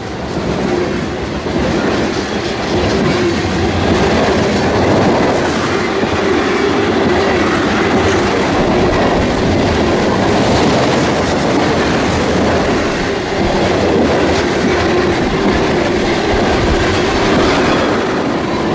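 A train passing close by, its wheels clicking rhythmically over the rail joints. It grows louder over the first few seconds and then holds steady.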